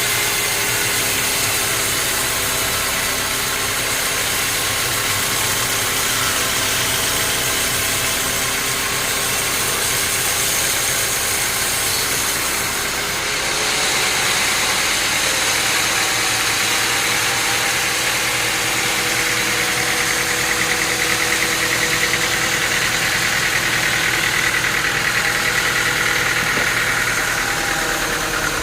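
Sawmill machinery running steadily, an engine-driven hum with several steady whining tones that shifts and grows slightly louder about halfway through.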